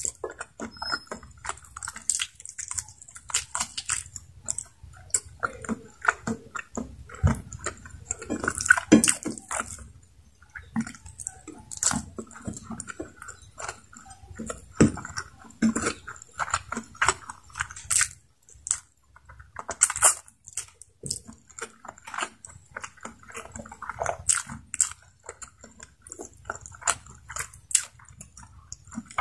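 Close-miked chewing and mouth sounds of someone eating rice and adobo chicken neck by hand: irregular short clicks and smacks.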